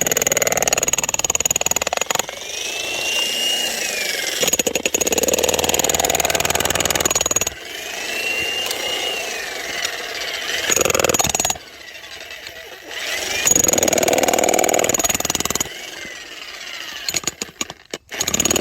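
Electric hammer drill (demolition breaker) fitted with a splitting bit, hammering into firewood logs to split them. It runs in several loud bursts of rapid rattling hammering over a steady high motor whine, with quieter stretches between.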